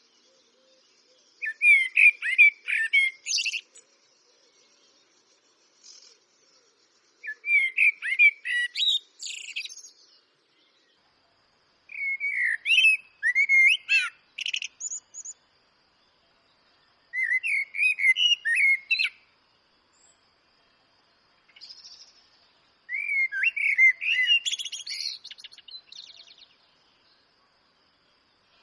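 Eurasian blackbird singing: five fluted, warbling phrases of two to three seconds each, separated by pauses of a few seconds, each ending in a higher, squeaky twitter.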